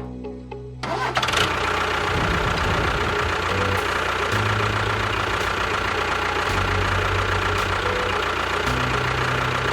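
An engine running steadily. It starts about a second in and keeps an even level until it cuts off just after the end, over low, shifting tones.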